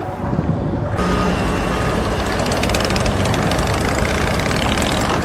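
Heavy machine or truck engine running, with a loud mechanical clatter and rattle that starts about a second in over a steady low hum.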